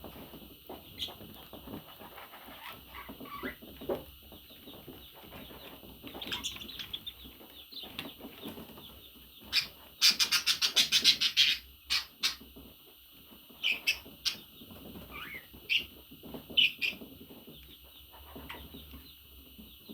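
Budgerigars chattering and chirping, with a loud run of rapid, sharp chirps, about seven a second, starting about ten seconds in, followed by a few single loud chirps.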